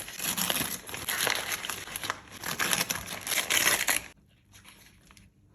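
A sweet wrapper being crinkled and torn open in the hands, a dense crackling that stops about four seconds in, leaving only a few faint ticks.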